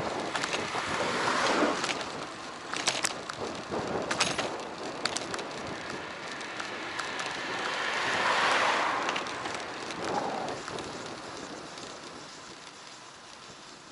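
Wind and road noise on an action camera's microphone riding on a moving bicycle. There are a few sharp clicks early on, swells in loudness at about a second and a half and again about eight seconds in, then a fade near the end.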